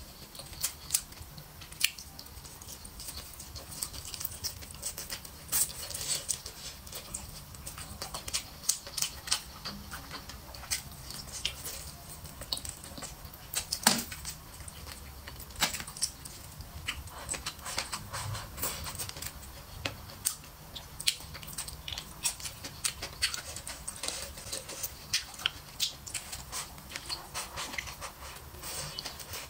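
Mouth sounds of eating stir-fried duck with green chili peppers: irregular wet clicks and smacks of chewing, with the sharpest crunch about fourteen seconds in.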